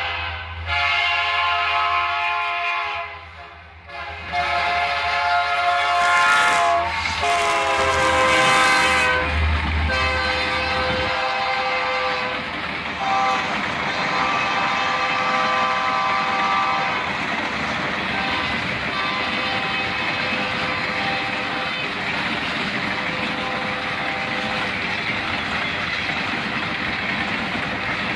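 Diesel locomotive horn sounding as a freight train led by EMD SD75M locomotives approaches a grade crossing, with a short break about three seconds in; its pitch drops about seven seconds in as the lead units pass. The locomotives are followed by empty steel gondola cars rolling by in a steady rumble.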